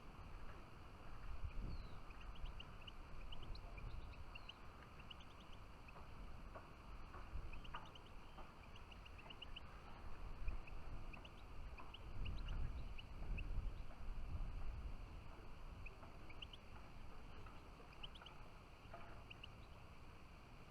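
Small songbirds calling, many short high chirps scattered through, over a low uneven rumble that swells twice.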